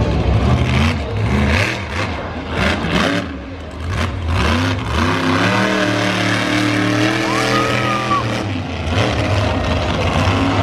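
Monster truck engine revving up and down several times, then held at a higher, steady pitch for a few seconds before dropping back.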